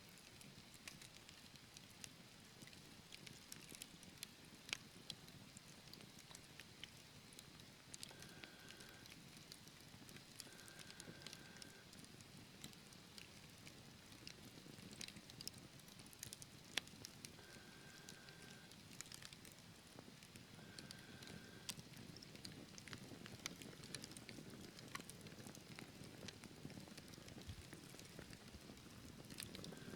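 Wood fire burning in a fireplace, crackling with many small, irregular pops and a few sharper snaps over a low, soft hiss of flame. A faint, short high tone, about a second long, comes and goes several times.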